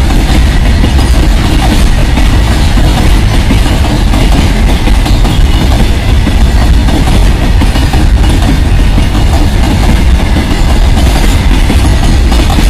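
Empty BCN covered freight wagons rolling past at speed: a loud, steady rumble and rattle of steel wheels on the rails.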